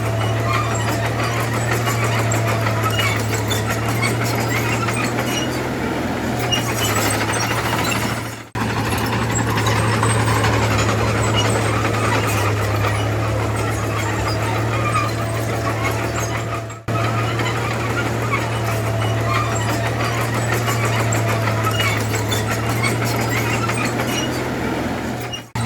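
Heavy diesel engine of earthmoving machinery running steadily, a low drone with a busy clattering texture over it. The sound drops out briefly twice, about a third and two-thirds of the way through.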